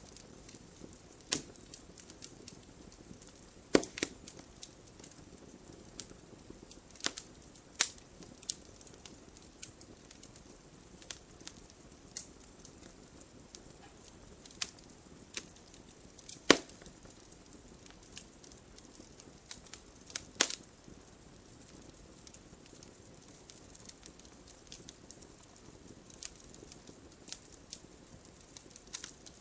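Wood fire crackling: a soft steady hiss with irregular sharp pops and snaps, a few of them much louder than the rest.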